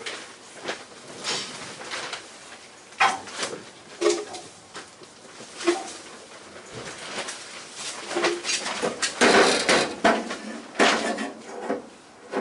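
Irregular knocks and clatters of tools and parts being handled and put away in a workshop, a few with a brief ring, the busiest run about eight to eleven seconds in.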